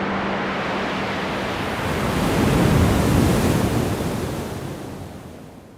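A steady rushing noise, with a low hum in the first second or so, swells about two seconds in and then fades out.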